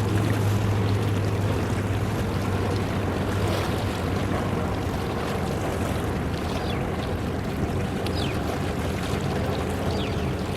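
Low, steady engine drone of a container ship under way in the harbour, over a rush of wind and water; the deepest hum eases off about two seconds in.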